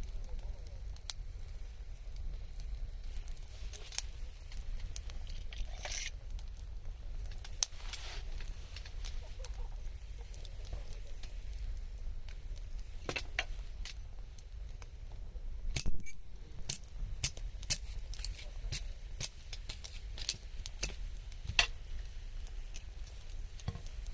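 Wood fire crackling, with sharp pops scattered throughout that come more often in the second half, over a low steady rumble.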